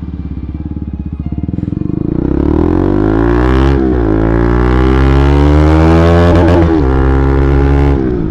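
Bajaj Pulsar NS200's single-cylinder engine with an aftermarket Akrapovic exhaust, loping at low revs, then pulling away and revving up. It drops in pitch at a gear change about four seconds in, climbs again, and the throttle closes near the end.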